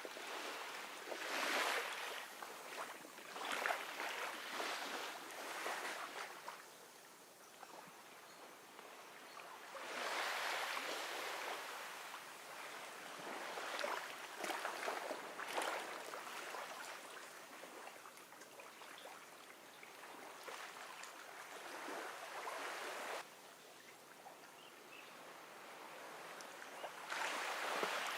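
Gentle ocean waves washing up on a beach, the surf hiss swelling and fading in slow surges a few seconds apart.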